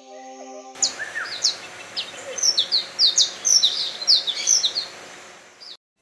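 Birds chirping: many short, high notes that slide downward, several a second and overlapping, over a steady hiss. A brief steady hum opens it, and the sound cuts off suddenly near the end.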